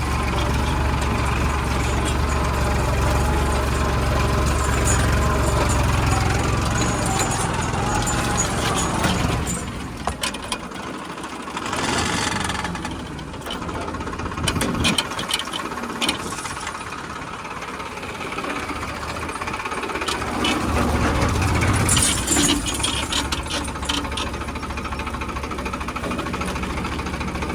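Farmtrac 60 PowerMaxx diesel tractor engine running under load while pulling a plough. The low engine rumble drops away about ten seconds in and builds back up again after about twenty seconds.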